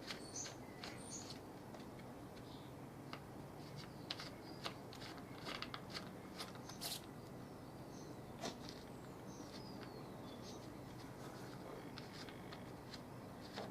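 Faint, scattered plastic clicks and knocks of the cell caps being fitted back onto a lead-acid car battery after topping up with distilled water.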